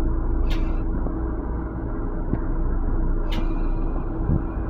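Steady low rumble and hum of an MTA Long Island Rail Road M7 electric railcar, heard from inside its small restroom. Two brief hisses cut through it, about half a second in and again a little after three seconds.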